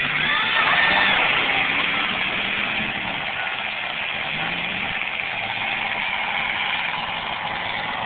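Several demolition derby cars' engines running and revving together, a steady din with pitch rising and falling.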